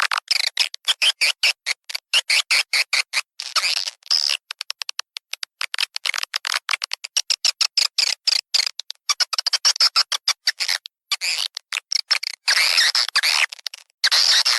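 Swiftlet lure-call track: rapid, choppy twittering chirps of edible-nest swiftlets, played in quick broken runs with short gaps. It is a call made to draw swiftlets into a swiftlet house through its entrance hole.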